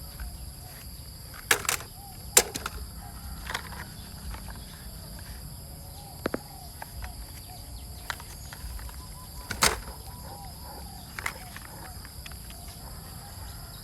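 Steady high-pitched insect chirring, typical of crickets, with a handful of sharp clicks and knocks scattered through it, the loudest about ten seconds in.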